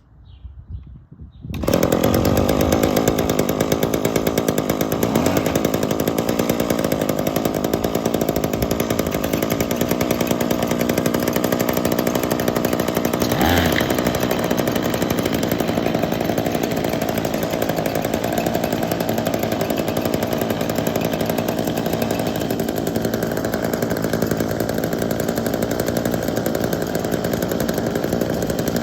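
A small gasoline engine on a piece of outdoor power equipment, started cold, catches about a second and a half in and then runs steadily, with one brief change in speed about halfway through.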